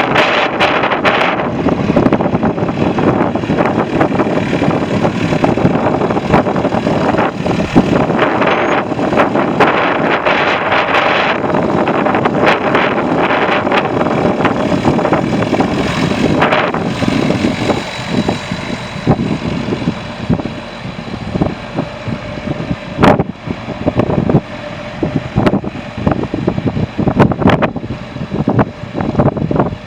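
Heavy wind buffeting the microphone in gusts over the steady running of an engine. The wind eases a little partway through.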